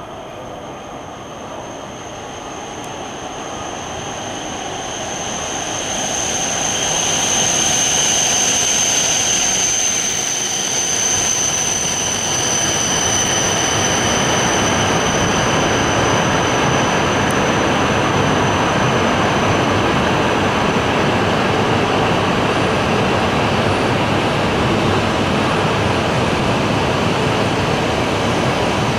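E5 series Shinkansen electric train running along the station track. The running noise builds over the first several seconds and then holds steady as the cars go by. A high-pitched whine over it fades out about twelve seconds in.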